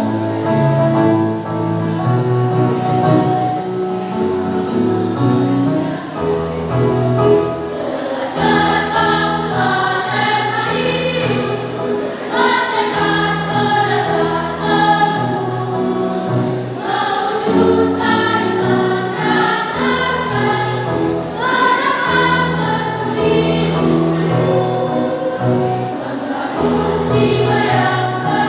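Primary-school children's choir singing in parts, with a low instrumental accompaniment changing chord every second or two.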